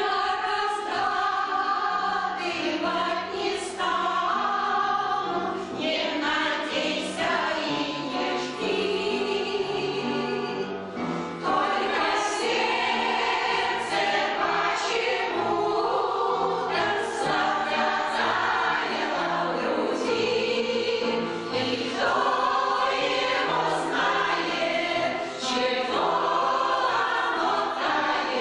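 Mixed choir singing a song with piano accompaniment, entering together at the start after a piano introduction.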